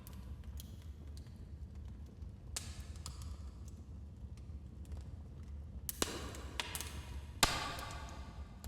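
Wood fire crackling in a fireplace: a low steady rumble of flame with a few sharp pops of burning wood, several close together in the second half, the loudest about three-quarters of the way through.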